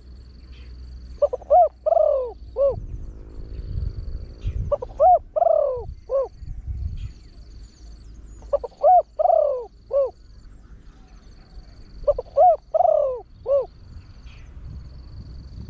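Spotted dove cooing in a deep-voiced call, four phrases about every four seconds, each a quick run of four or five coos.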